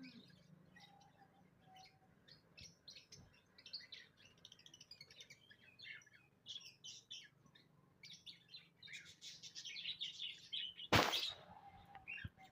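Small pet cage birds chirping and twittering in quick, scattered high chirps that grow busier in the second half, with one brief louder burst about eleven seconds in.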